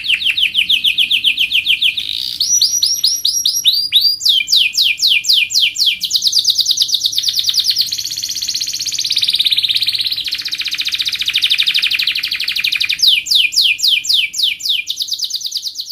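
Domestic canary singing continuously in fast trills. It shifts every second or two between runs of rapidly repeated sweeping notes.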